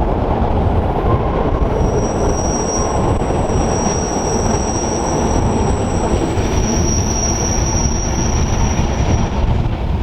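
Rhaetian Railway train running on the Arosa line: a steady rolling rumble with a high-pitched wheel squeal that sets in about a second and a half in and stops near the end, the sound of wheel flanges grinding through a tight curve.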